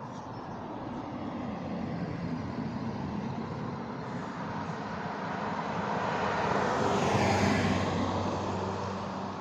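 A motor vehicle passing by: its engine and road noise grow louder to a peak about seven seconds in, drop in pitch as it goes past, then fade.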